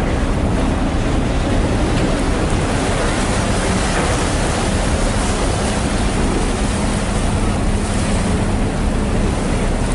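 Steady rush of wind and harbour water, with a ferry's engine droning low beneath it.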